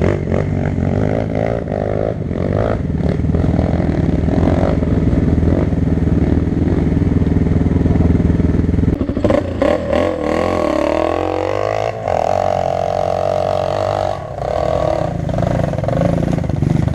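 Four-stroke single-cylinder dirt bike engine running under way. Its note holds steady for about nine seconds, then drops and climbs again as the throttle is worked.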